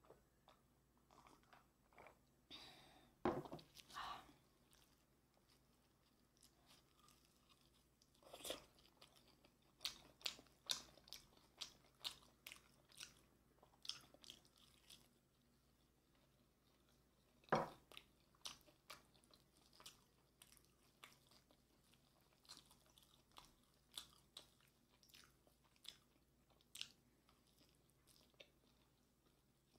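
Close-up eating sounds of biting and chewing sauce-glazed Korean fried chicken (yangnyeom chicken), with irregular crisp crunches and clicks. A few louder knocks stand out, about three seconds in and again near the middle.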